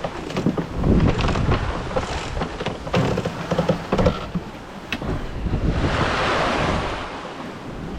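Wind buffeting the microphone aboard a sailboat under sail in rough seas, with a rushing of water and scattered knocks. A broad rushing hiss swells about six seconds in and fades near the end.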